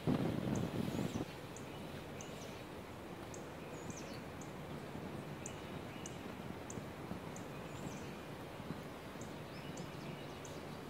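Woodland ambience: a small bird giving short, high chirps about once or twice a second over a faint steady background hiss. A brief louder burst of noise fills the first second or so.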